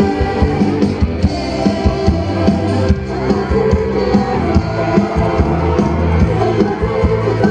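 Live band playing an instrumental passage with a steady drum beat, heard through a loud concert sound system.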